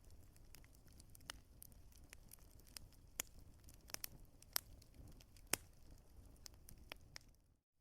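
Wood fire crackling, with irregular sharp pops of varying loudness over a faint low rumble. The sound drops out to silence for a moment near the end.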